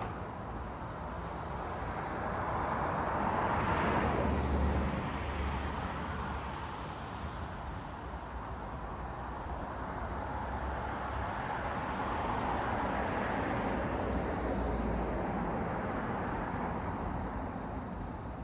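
Road traffic: vehicles passing on a city road, tyre and engine noise swelling as one passes about four seconds in and another passes later, between about twelve and fifteen seconds in, over a steady traffic hum.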